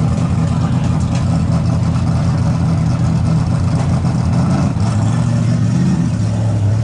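Stock car V8 engines idling together, a loud, steady low rumble. Near the end one engine's note grows louder.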